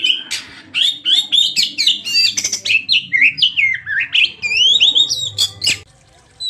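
Oriental magpie-robin (kacer) singing a fast, varied run of whistles mixed with harsh chattering notes. It stops abruptly near the end.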